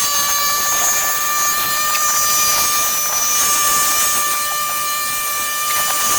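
A power tool's motor running steadily at high speed: a constant high whine with a few faint ticks.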